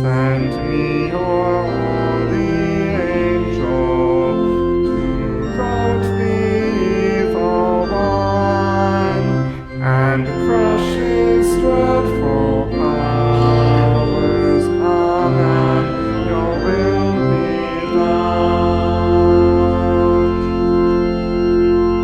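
Church organ accompanying a congregation singing a hymn in slow, sustained chords, closing on a long held final chord that stops near the end.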